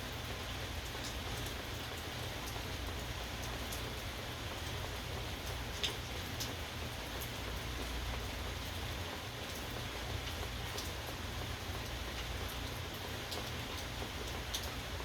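Steady rain falling, with scattered louder drops ticking on a surface close by; one drop about six seconds in is sharper than the rest.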